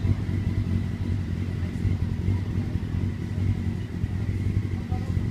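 Motorbike engine idling steadily after a remote keyless start, an even low rumble.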